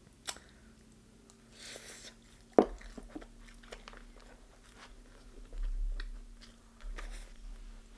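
Close-up biting and chewing of deep-fried chicken: scattered crisp crunches and wet mouth clicks, with one sharp crunch about two and a half seconds in and dull low thumps later on.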